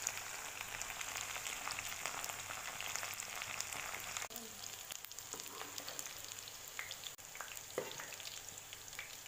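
Cut okra frying in hot oil in a pan: a steady sizzle thick with small crackling pops.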